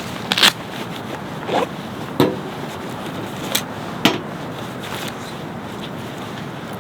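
A steady hiss with a handful of sharp clicks and knocks in the first four seconds, the loudest about half a second in.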